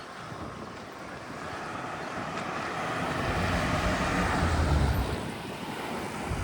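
A road vehicle driving past, its tyre and engine noise swelling to a peak about four to five seconds in, then fading.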